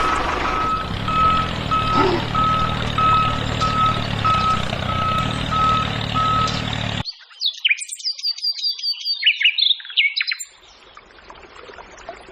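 A reversing beeper sounding one steady high beep about one and a half times a second over a steady motor hum. About seven seconds in it cuts off suddenly, and a few seconds of birds chirping follow.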